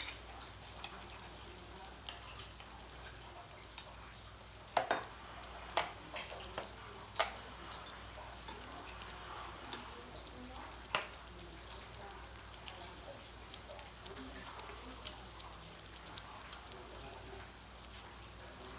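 Cakes frying in hot oil: a steady sizzle with scattered sharp pops and crackles, the louder pops bunched about five to seven seconds in and again around eleven seconds.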